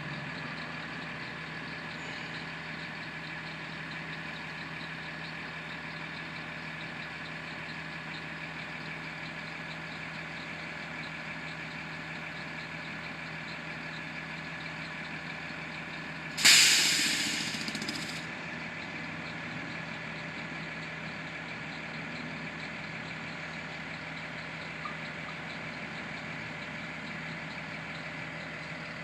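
Garbage truck engine idling steadily. About sixteen seconds in, its relief valve vents once with a loud hiss that lasts under two seconds and tails off.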